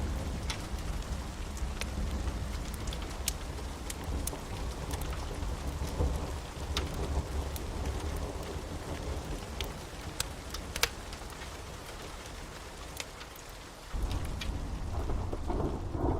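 Storm ambience: steady rain with scattered sharp drop ticks over a deep thunder rumble, which eases and then swells again about fourteen seconds in.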